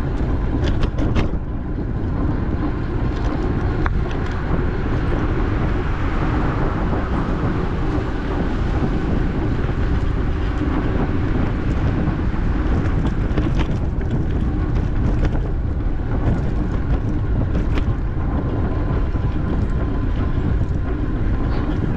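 Wind buffeting the microphone over the steady rolling rumble of a bicycle being ridden, with a few faint clicks now and then.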